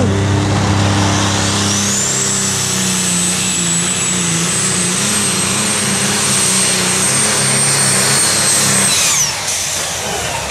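Competition pulling tractor running flat out down the track, its engine's steady drone topped by a high whine that climbs quickly about a second in and holds a steady pitch. Near the end the whine drops sharply and the engine note falls away as the run ends, after something lets go underneath the tractor.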